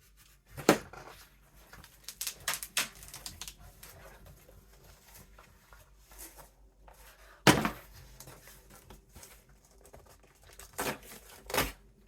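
A gift bag being cut and handled: sharp snips and snaps, loudest about a second in and midway through, with paper crinkling and tearing between them.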